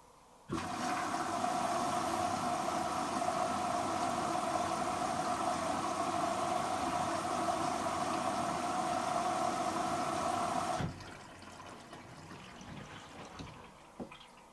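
Hoover H-Wash & Dry 500 washer dryer's water inlet valve opening and water rushing steadily into the machine, cutting off suddenly after about ten seconds, followed by quieter trickling.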